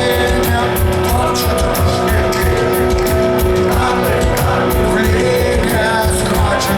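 Rock band playing live and loud, with a steady drum beat, cymbals and guitars.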